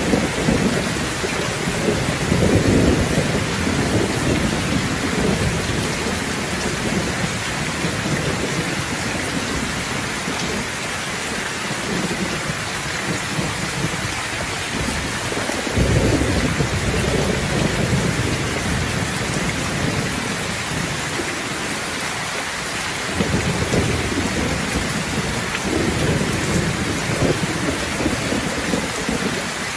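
Steady, heavy-sounding rain with thunder rumbling low under it several times. One roll starts suddenly about halfway through, and more follow near the end.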